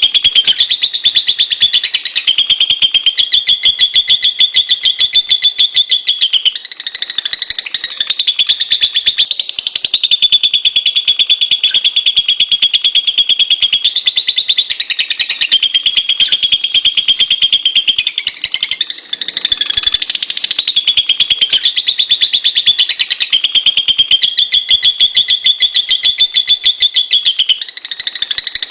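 Lovebird chattering in a rapid, shrill, unbroken trill of fast repeated notes. It runs for several seconds at a stretch, with brief breaks and shifts in pitch every few seconds.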